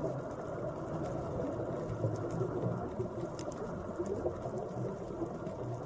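Relaxing background water sound: a steady low rush with a few faint ticks.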